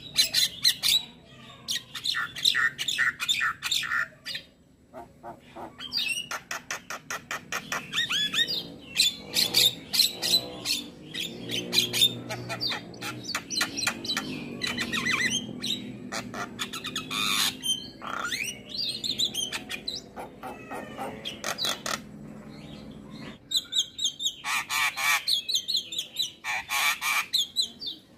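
Javan myna singing in long runs of rapid, harsh repeated notes and squawks mixed with gliding whistles, with a few short breaks.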